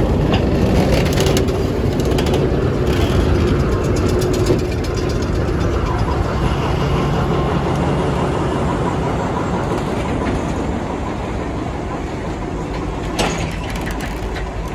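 A diesel locomotive passing close at a crawl with its engine running, then passenger coaches rolling slowly over a wooden trestle, wheels rumbling and clanking on the rails. A sharp clunk comes about four and a half seconds in and another near the end.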